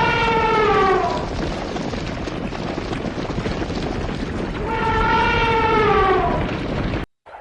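Two long, drawn-out calls from a farm animal, each about a second and a half and sliding down in pitch at the end, over a steady rushing background; the sound cuts off abruptly near the end.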